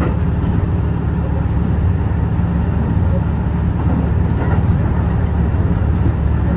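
Steady low rumble of a moving train, heard from on board: the running noise of the Senseki-Tohoku Line's HB-E210 hybrid diesel railcar under way.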